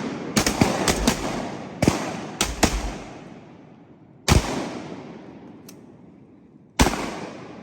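Shotguns firing at ducks: a rapid volley of about seven shots in the first three seconds, then two more single shots spaced a couple of seconds apart. Each shot trails off in a long echo.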